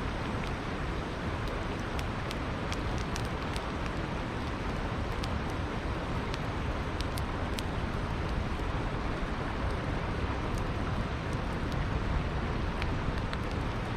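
Wood campfire crackling, with many small sharp pops scattered irregularly over the steady rushing of a river.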